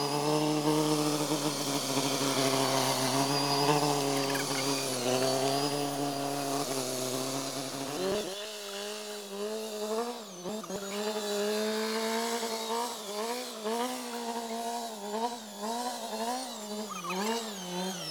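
Tractor engine running, its pitch stepping up about eight seconds in and then rising and falling repeatedly as the engine speed changes.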